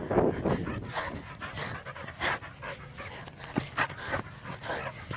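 Dog panting in quick, short breaths.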